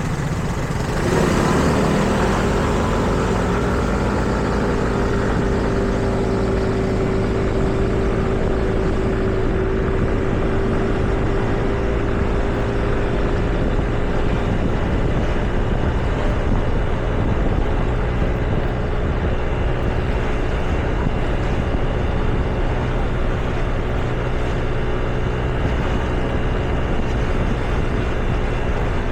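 Street traffic: motor vehicles running, with a louder surge about a second in, followed by a steady engine hum over a low rumble.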